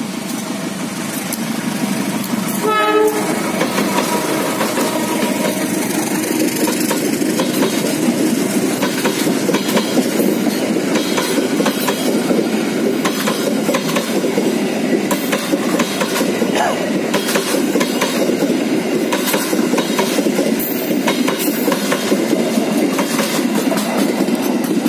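Passenger train hauled by a CC201 diesel-electric locomotive passing close by. A short horn blast comes about three seconds in, then the train's coaches roll past with the wheels clattering steadily over the rail joints.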